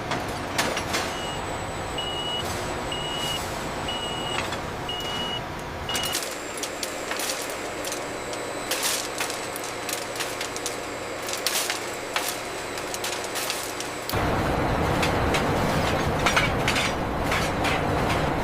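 Factory machinery running with a steady noise, a high electronic beep repeating about once a second for the first six seconds. The sound changes suddenly after that to lighter clicking and clinking, and grows louder and fuller near the end.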